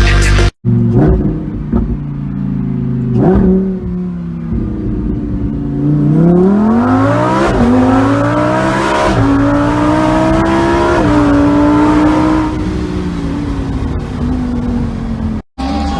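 A car engine revving, with a quick blip about three seconds in, then accelerating hard: its pitch climbs and falls back several times as it shifts up through the gears.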